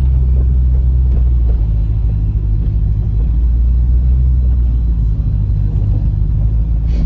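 Steady low rumble of a car driving slowly, heard from inside its cabin.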